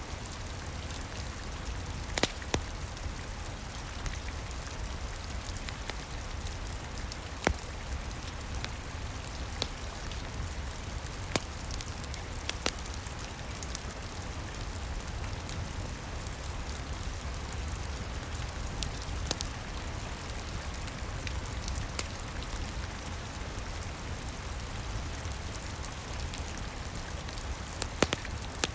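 Steady rain with a low rumble underneath, joined now and then by a handful of sharp crackles and pops from a fireplace fire.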